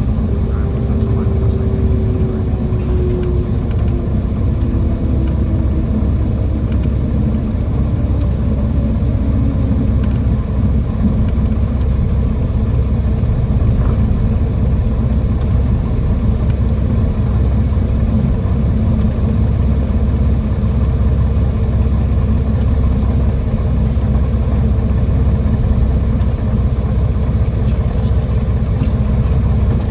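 Cessna 206 Stationair's piston engine and propeller running steadily with a loud, low drone. Over the first ten seconds or so its tone slides slowly down in pitch as the engine comes back in power.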